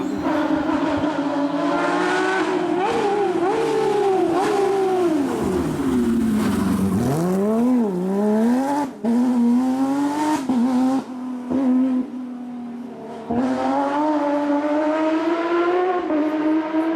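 Porsche 997 GT3 rally car's flat-six engine driven hard, its pitch climbing and dropping through gear changes. About six seconds in the revs fall steeply as it slows, then pick up again; it eases off for a couple of seconds before accelerating once more near the end.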